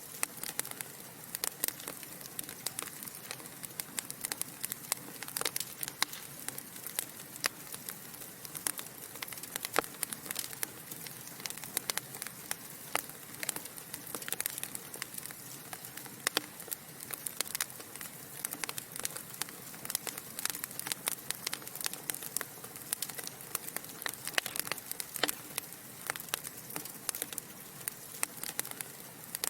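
Wood fire crackling in a fireplace: many sharp, irregular pops and snaps over a soft steady hiss of burning logs.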